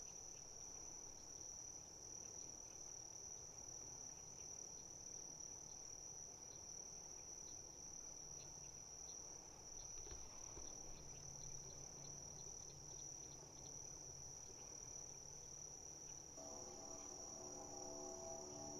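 Insects trilling in one steady, unbroken high-pitched note, faint. A faint low hum of several steady tones comes in near the end.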